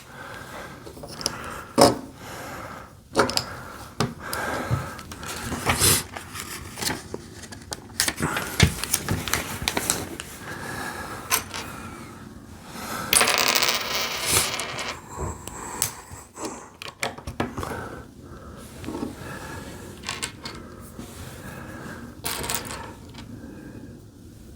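Plastic Lego bricks clattering and clicking as loose pieces are sorted through and pressed together, with a longer rustle about thirteen seconds in.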